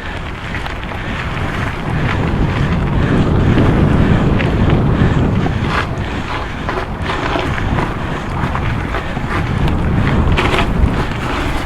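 Wind rumbling and buffeting on the microphone of a camera riding along on a moving mountain bike, with scattered sharp clicks and knocks from the bike over the rough trail.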